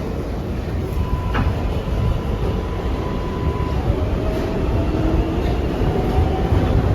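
R142A subway car running between stations, heard from inside the car: a steady low rumble of wheels on rail, with one sharp knock a little over a second in. In the second half the car's motor whine rises slightly in pitch and the sound grows a little louder.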